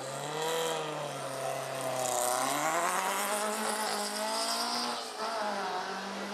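Ford Cortina race car's four-cylinder engine revving on the start line: it runs at a low note for about two seconds, climbs in pitch and holds, then drops back near the end.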